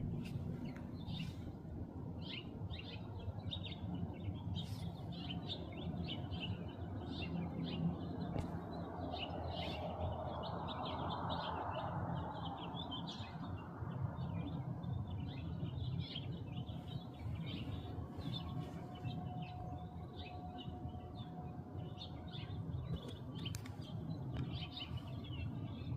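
Small birds chirping in short, repeated notes throughout, over a steady low outdoor rumble, with a swell of broader noise about halfway through.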